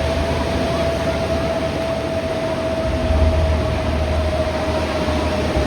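Jet engine noise from Aermacchi MB-339 aerobatic jets: a steady whine that drifts slowly lower over a continuous rushing roar. Wind buffets the microphone with low rumbles.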